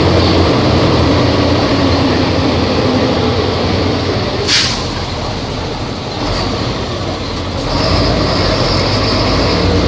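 Volvo B270F bus engine running under way. A short, sharp hiss of air comes about four and a half seconds in, the engine then runs quieter, and it picks up again near eight seconds.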